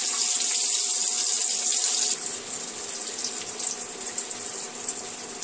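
Brinjal slices sizzling steadily as they shallow-fry in hot mustard oil in a steel kadai. About two seconds in, the sizzle drops to a quieter level.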